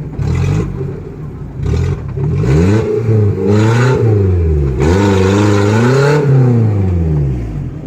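Off-road 4x4's engine revving up and down several times, its pitch rising and falling with the throttle, the longest climbs in the second half.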